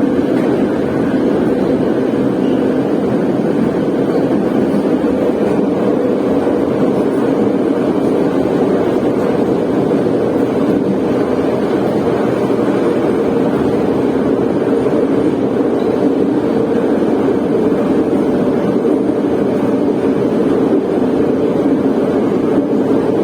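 Moscow metro train running at speed through a tunnel, heard from inside the carriage: a steady, loud, low rumble of wheels and running gear.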